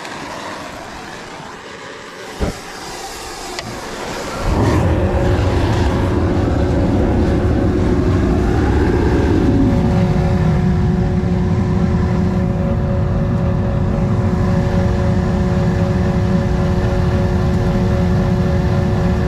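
Gas burner of a homemade crucible furnace. A softer hiss and a single click give way, about four and a half seconds in, to a sudden jump to a loud, steady roar. A steady hum settles in over the roar about halfway through.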